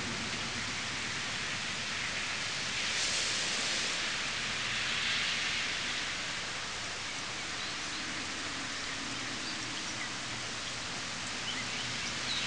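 Heavy rain pouring down and splashing into puddles on the ground, a steady hiss that swells twice a few seconds in.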